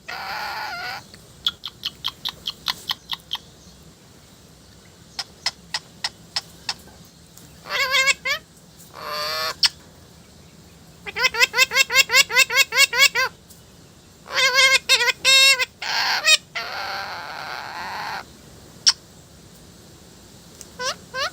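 A parrot calling in bursts with pauses: short runs of rapid clicks, warbling pitched calls, a long run of quick pulsed notes about halfway through, and a few harsher rasping squawks.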